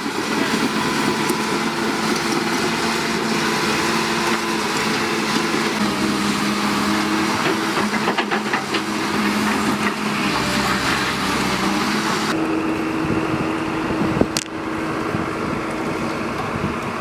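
Heavy machinery engine running steadily, with an abrupt change in the sound about twelve seconds in and a single sharp knock shortly after.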